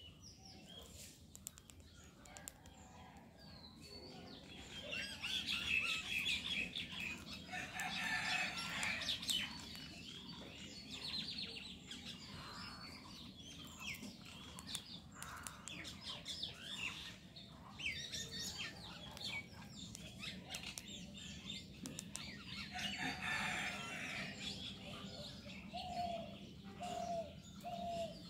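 Birds chirping at intervals, with light rustling and clicks, and a run of short, lower repeated notes near the end.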